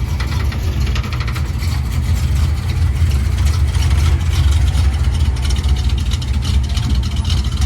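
A car engine running steadily, with a loud, low exhaust rumble.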